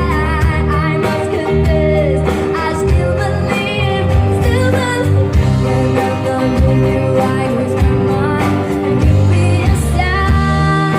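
Live band music with a singer: a strong bass line and sustained instrumental chords under a sung melody.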